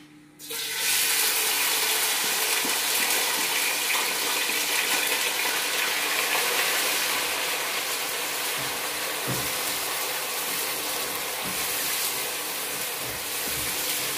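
Chopped ingredients dropped into hot oil in a pot on a gas stove, sizzling loudly from about half a second in and carrying on steadily while they are stirred, with a few faint knocks of the spatula.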